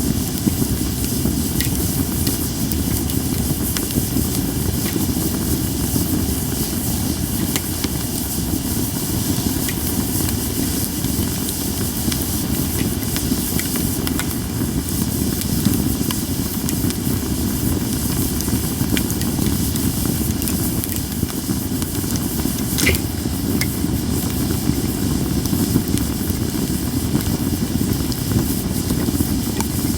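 Cedar-wood campfire burning with a steady hiss over a low, steady rumble, and occasional sharp pops and crackles, one louder pop about three-quarters of the way through.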